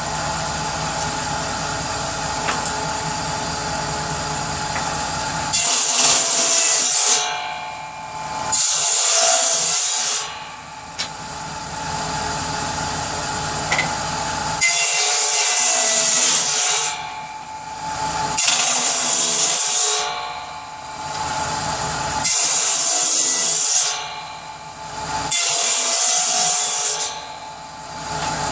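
Power saw cutting wood for kindling: the machine runs steadily for a few seconds, then goes through the wood six times, each cut lasting a second or two with the saw running on in between.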